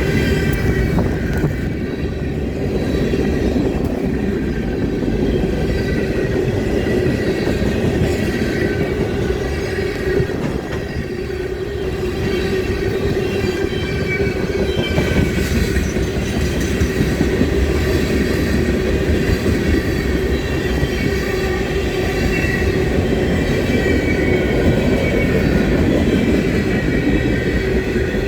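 Train running past in one continuous, steady rumble with a constant hum.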